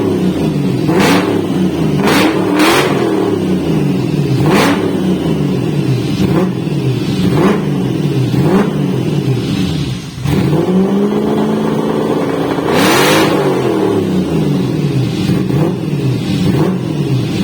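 Toyota 1UZ-FE V8 through a straight-through exhaust, revved again and again, its pitch rising and falling, with a brief drop about ten seconds in before it climbs again.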